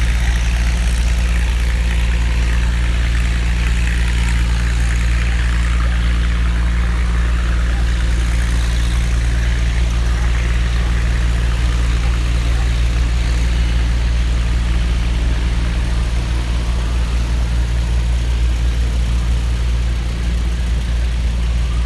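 Antique tractor engine running steadily at an even, low pitch, without revving.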